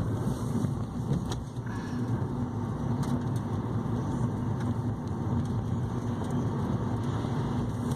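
Car engine and road noise heard from inside the cabin while driving: a steady low rumble with a faint hum.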